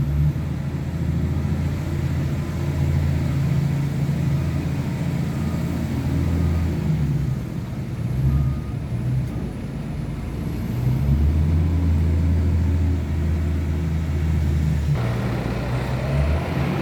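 A truck engine running, a steady low drone that shifts in pitch several times as the engine speeds up and slows down.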